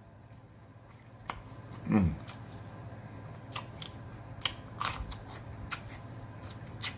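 A person chewing a bite of green chili pepper with wet lip smacks and mouth clicks, and a short falling "mm" about two seconds in.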